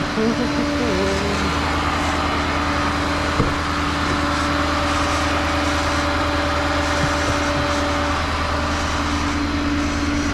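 Tow truck on the move: steady engine and road noise with a constant whine running underneath.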